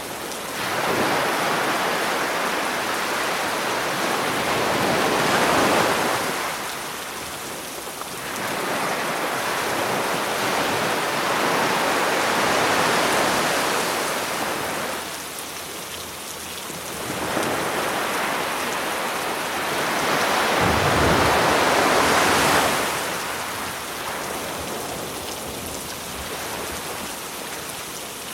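Sea waves surging onto the shore and washing back, one swell about every seven or eight seconds, with a low thump as one breaks around two-thirds of the way through. Steady rain hisses under them throughout.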